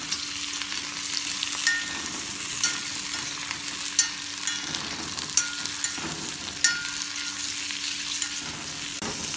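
Sliced onion, tomato and split cashews sizzling in hot oil in a kadai while being stirred, with a metal spoon clicking sharply against the pan every second or so.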